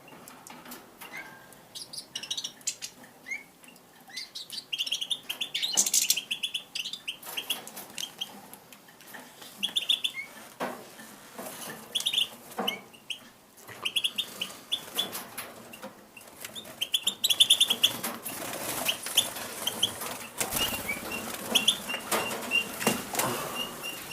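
Pine grosbeaks fluttering their wings and giving short, repeated chirping calls, with a quick run of short high notes near the end.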